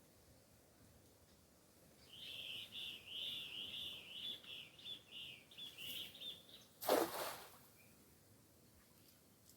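A bird singing a run of quick, repeated high notes for about five seconds. It is cut off near the end by one short, loud burst of noise.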